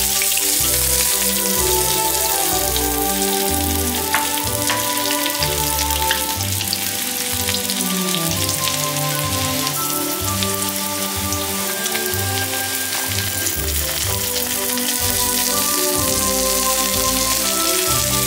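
Chopped onion and green chillies, then raw chicken pieces, sizzling in hot mustard oil in a steel kadai: a steady, rain-like hiss. Background music plays underneath.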